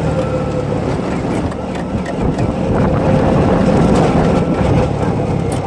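Vehicle on the move along a road: steady engine and road noise with a faint steady hum, getting a little louder around three to four seconds in.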